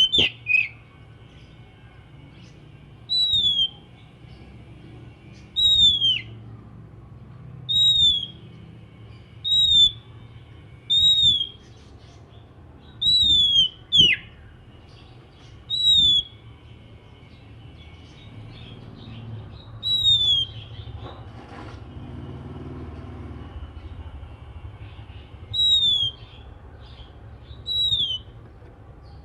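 Oriental magpie-robin (kacer) repeating a single loud, downslurred whistle, about a dozen times at irregular gaps of one to three seconds.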